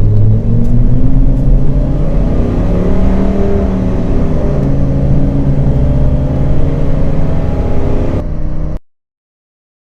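1992 Ford Econoline's 5.0 V8 accelerating hard on oversized 285 tires, the engine note climbing in pitch, dropping back as the four-speed automatic shifts, then climbing again. The sound cuts off suddenly near the end.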